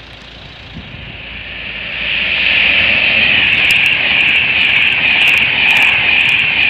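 Express passenger train approaching and then passing close by at speed: a rising rush over the first two seconds, then a loud, steady roar of wheels on rail and air as the coaches go by.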